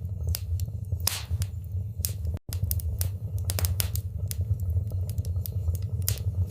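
Wood fire crackling in a fireplace, with irregular sharp pops and snaps over a steady low rumble of the burning. The sound cuts out for an instant about two and a half seconds in.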